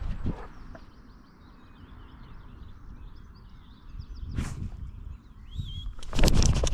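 Birds chirping in woodland, broken by a short crunch of a dog's paws on the trail about four and a half seconds in and a louder burst of crunching footsteps near the end.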